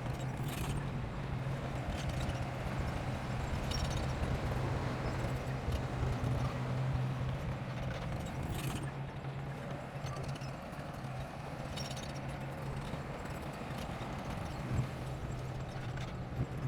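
Bulldozer engine running steadily, with a few short knocks every three to four seconds.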